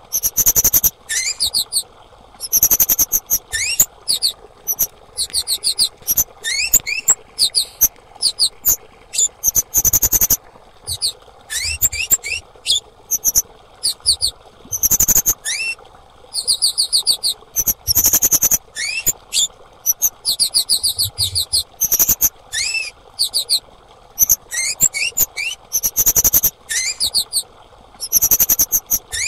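A female kemade songbird calling: short bursts of rapid, very high-pitched chirps repeated every second or two, many opening with a short rising note, over a faint steady hiss.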